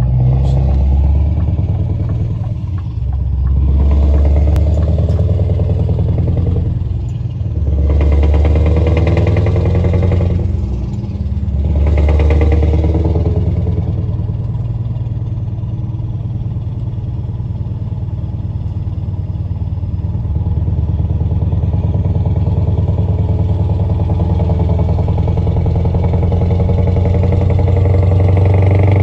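Scania R580 truck's V8 diesel engine, through an aftermarket exhaust, revved up four times in short blips during the first half, then settling into a steady idle.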